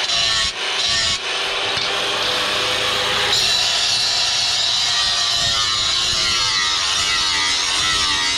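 Power tool working steel, running steadily under load with its pitch wavering. After a few short breaks in the first second or so, it runs continuously and grows hissier about three seconds in.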